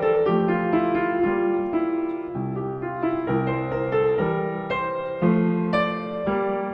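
Solo piano playing a slow piece: a melody over lower accompanying notes.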